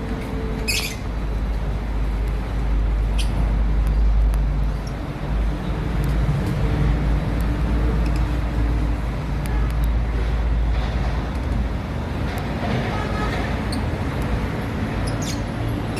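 Steady low rumble of road traffic, with a few short, sharp high chirps from lovebirds, the clearest about a second in.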